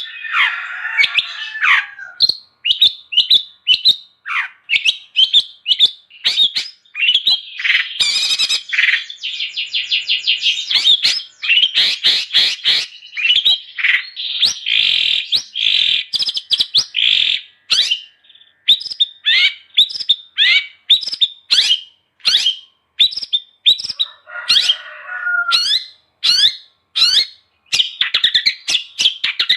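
Long-tailed shrike (cendet) singing a fast, unbroken stream of short chattering whistled notes, with harsh rasping calls near the start and again about 25 seconds in.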